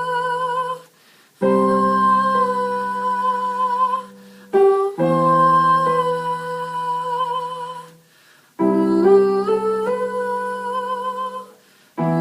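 A girl humming long wordless notes with vibrato over held keyboard chords, in phrases of about three seconds with short breaks between them.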